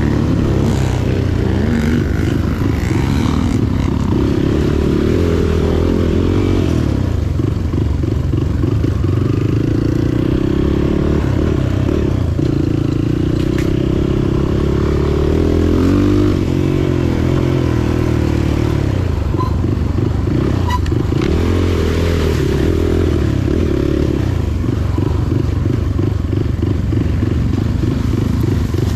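Motorcycle engine running steadily under way, its pitch rising and falling a little as the revs change.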